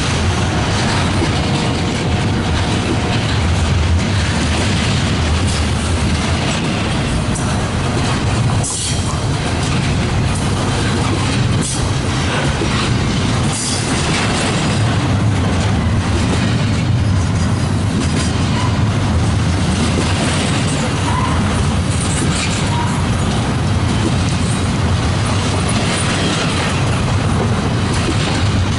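A freight train rolling past close by with a steady, loud rumble of wheels on rail, broken by a few sharp knocks a third of the way in.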